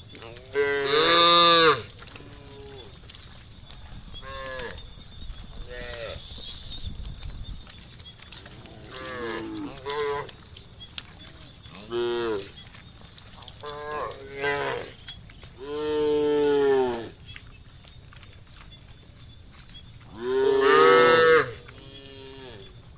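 A herd of cattle mooing: several cows call back and forth, with three loud, long moos (about a second in, about two-thirds of the way through and near the end) and many shorter, fainter moos between them.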